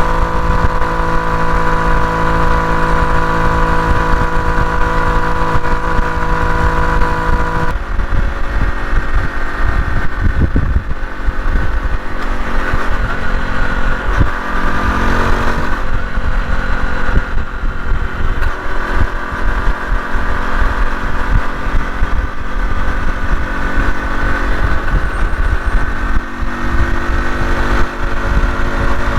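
Honda CT125 Hunter Cub's single-cylinder engine running steadily under way, with strong wind buffeting the microphone. The engine note changes abruptly about eight seconds in.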